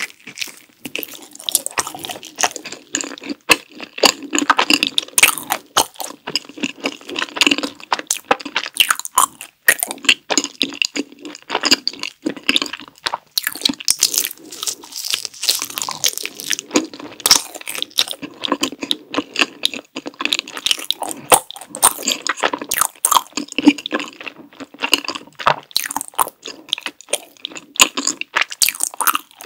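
Close-miked biting and chewing of a strawberry milk cream rice cake (soft mochi with a cream filling): a continuous run of sharp, wet mouth clicks and chewing noises.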